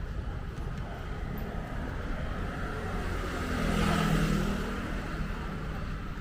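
A road vehicle passing by on the street. Its engine and tyre noise swells to a peak about four seconds in, then fades, over a steady low traffic rumble.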